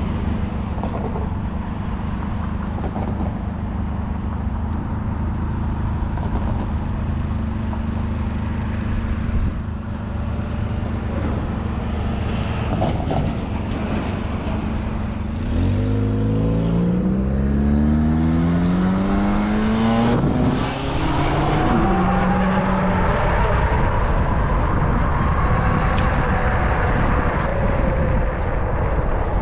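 Steady low road and wind noise. About halfway through, a motor vehicle's engine is heard accelerating, its pitch climbing in several rising sweeps until near the end.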